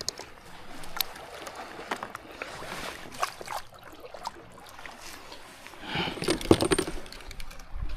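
Scattered small clicks, knocks and rattles of fishing gear being handled aboard a kayak, with a louder burst of handling noise about six seconds in.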